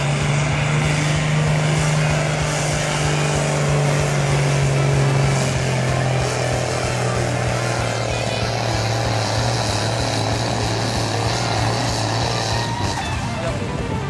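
Tractor engine pulling hard under load, one steady loud note that sinks slowly in pitch, then drops away near the end.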